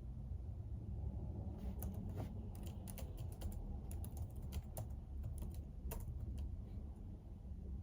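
Typing on a computer keyboard: a run of irregular key clicks starting about two seconds in and stopping shortly before the end, over a steady low hum.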